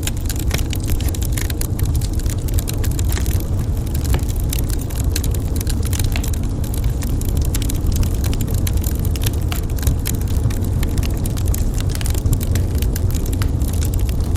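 Wood fire burning in a fireplace: a steady low rumble under frequent sharp crackles and pops of burning wood.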